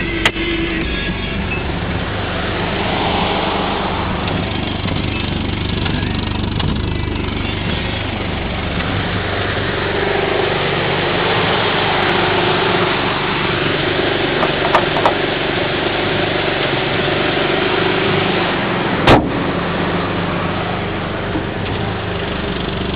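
Subaru XT6's 2.7-litre flat-six engine idling steadily, with a few sharp clicks over it, the loudest about nineteen seconds in.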